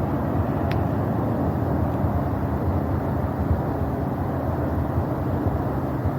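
Distant rocket launch rumble: a steady low roar with a rough, crackling texture, with a faint short high chirp about a second in.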